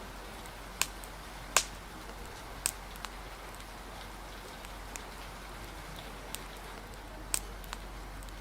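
Steady hiss of rain with a wood fire crackling over it: about seven sharp pops and snaps scattered at uneven intervals, the loudest about a second and a half in.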